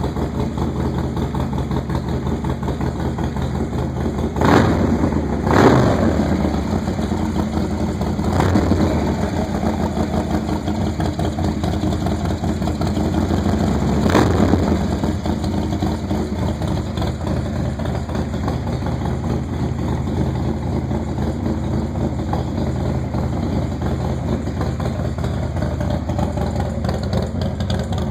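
Engine idling after a cold start, with a few short throttle blips near the start that rise and die back to idle, then a steady idle.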